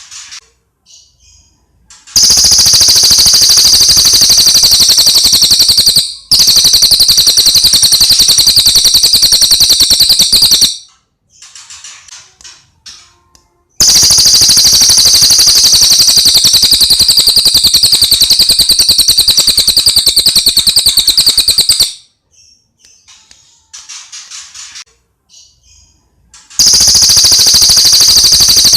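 Cililin coklat singing: long, loud, high-pitched rattling trills, each a very fast run of notes lasting about four to eight seconds. There are four trills, with a few soft short chirps in the pauses between them.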